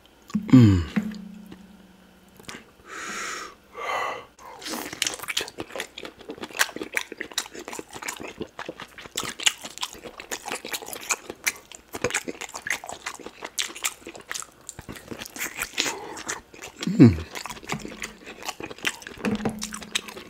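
Close-miked wet chewing, lip smacks and sucking on oxtail meat eaten by hand from pepper soup, a dense run of small clicks from about five seconds in. Twice, near the start and near the end, a short low sound falls in pitch and leads into a steady low hum.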